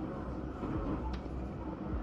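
Diesel railcar of the Nishikigawa Railway giving a steady low rumble, with one sharp click about a second in.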